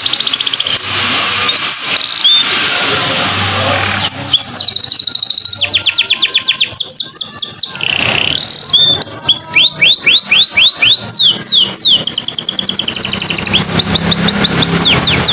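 Domestic canary singing a long, loud song of rapid trills and rolls, with fast repeated high chirps and whistled phrases.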